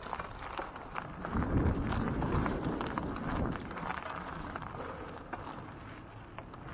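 Wind rumbling on the microphone, swelling about a second in and easing after a few seconds, over scattered light crackles of leaves and twigs on a woodland trail.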